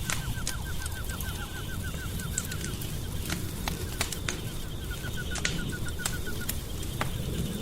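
Wood fire crackling in a fireplace: a steady low rumble with frequent sharp pops. Over it, a rapid chirping trill of about eight notes a second comes in two bouts, one near the start and one past the middle.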